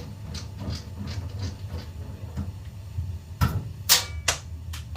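A run of light mechanical clicks and knocks over a low steady hum, with a few sharper, louder clacks near the end.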